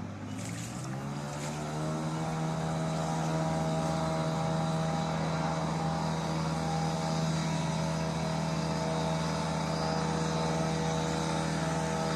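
An engine speeds up over the first second or two, then runs steadily at that higher speed.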